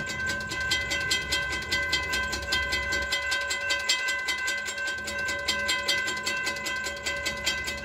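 Railroad grade-crossing warning bell ringing in a fast, even run of strikes, with the low rumble of idling diesel locomotives underneath.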